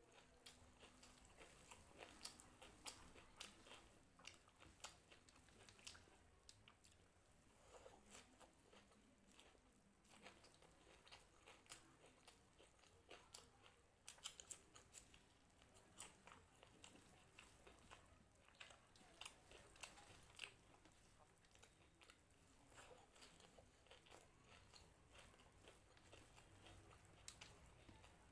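Faint, close-up chewing and crunching of crisp puffed-rice mix (muri makha), a steady stream of small irregular crackles and bites.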